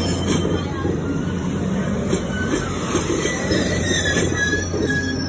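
Railroad cars rolling past on steel wheels: a steady rumble, with irregular clicks as the wheels cross rail joints and short high squeals from the wheels on the rails.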